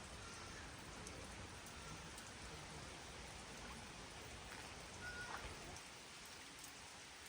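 Steady rain falling, an even hiss with no break. A few faint, short high tones sound through it.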